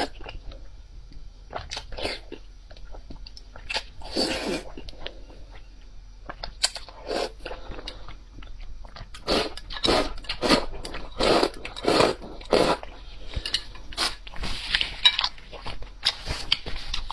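A person biting and chewing crisp food close to the microphone: a run of separate crunches, coming about two a second through the middle stretch.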